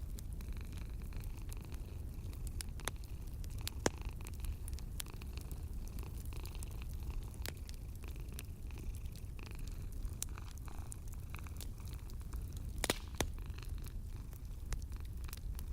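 A cat's steady low purring under a crackling fireplace fire, with scattered sharp pops. The loudest pop comes about four seconds in, and two more come close together near the end.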